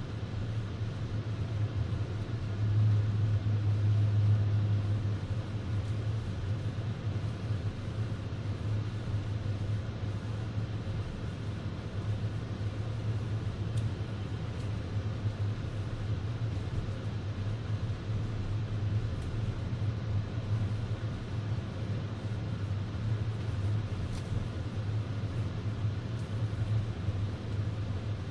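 Steady low rumble of a car driving on a snow-covered road, heard from inside the cabin: engine and tyre noise, swelling a little a few seconds in.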